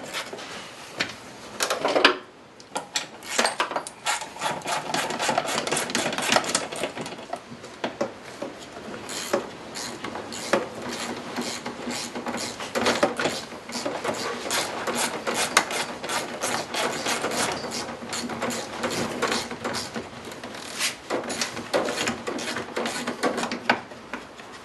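Hand socket ratchet clicking rapidly as bolts are turned out of a car body, in long runs with brief pauses.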